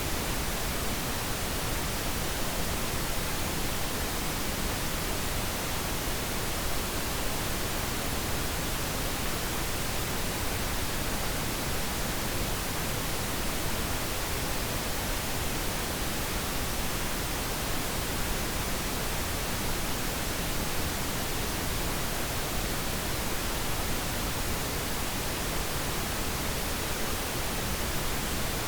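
Pink noise: a steady, even hiss that spreads across all pitches and holds unchanged throughout.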